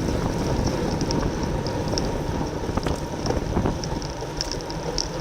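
Wind buffeting a bicycle-mounted camera's microphone at race speed, with road noise from the bike and scattered light clicks.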